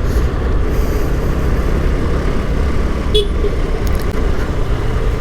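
Steady rush of wind and road noise while riding a Honda Activa 5G scooter in traffic at speed, heavy in the low end. A short horn beep sounds about three seconds in.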